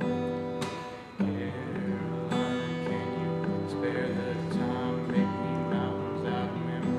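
Acoustic guitar played without singing: strummed and picked chords ringing, with a brief drop about a second in before the strumming picks up again.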